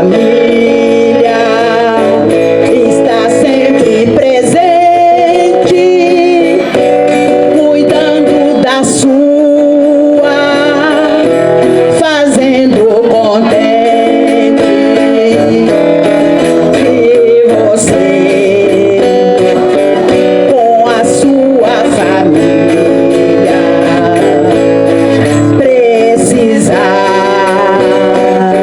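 Singing with guitar accompaniment, the voice wavering over steady plucked and strummed strings.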